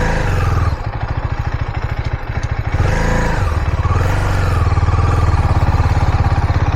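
KTM 250 Duke's single-cylinder engine revving up and down under throttle, pulling the bike through loose sand; the revs rise and fall near the start, again about three seconds in, and once more a second or so later.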